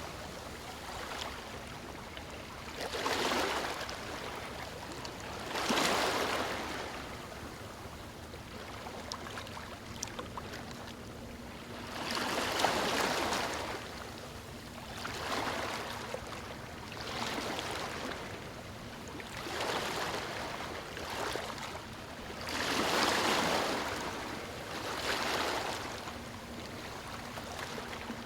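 Small waves breaking and washing over stones on a shore. Each surge swells and fades every few seconds, with a steady rush of water between them.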